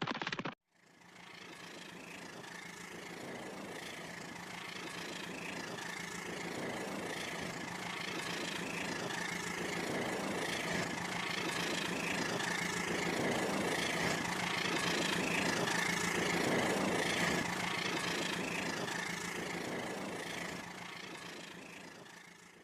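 Rail King toy train running on its track: a steady electric motor whine over a faint rhythmic clatter. It grows louder through the middle and fades away near the end.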